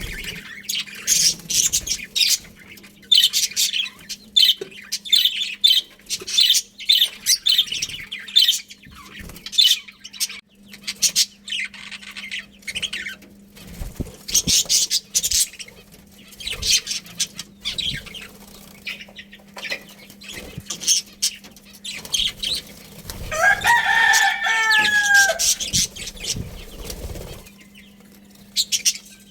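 A colony of budgerigars chirping and chattering with many short, high, rapid calls. About two-thirds of the way through, a lower, longer bird call stands out for a couple of seconds, over a steady low hum.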